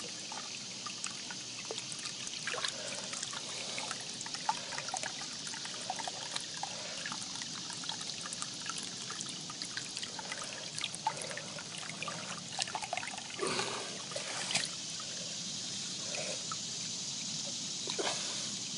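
Shallow ditch water trickling steadily, with scattered small clicks and knocks; a few louder ones come near the middle and near the end.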